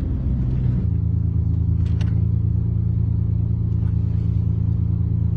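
Car engine running with a steady low drone; the note steps up slightly about a second in and then holds.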